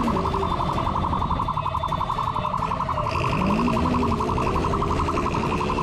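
Police motorcycle siren, a fast pulsing electronic tone that repeats evenly, with a motorcycle engine revving up and back down about three and a half seconds in.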